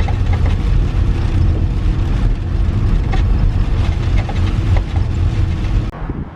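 Road vehicle running, heard from inside the cabin: a loud, steady low rumble with many small rattling clicks, cutting off abruptly near the end.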